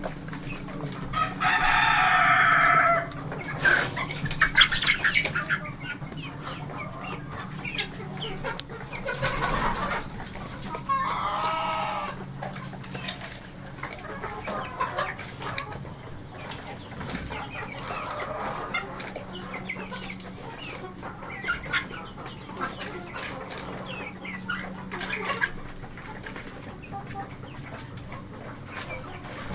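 Chickens clucking, with a rooster crowing once about a second in, a long call lasting about two seconds, and a shorter call near the middle.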